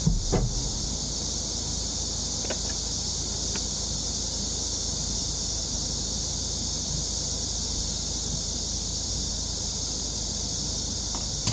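Steady high-pitched insect chorus, with a few faint clicks in the first few seconds.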